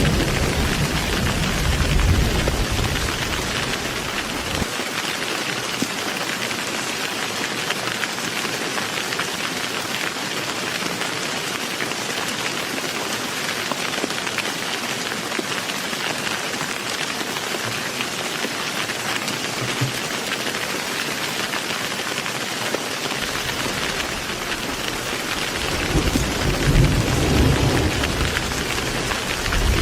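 Heavy rain falling in a steady, dense hiss. Rolling thunder rumbles low under it for the first few seconds, then builds again in the last five or six seconds.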